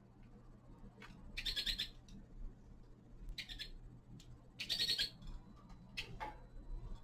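Caged finches calling: three short chirping bursts about a second and a half, three and a half, and five seconds in, with a few faint ticks between them over a steady low hum.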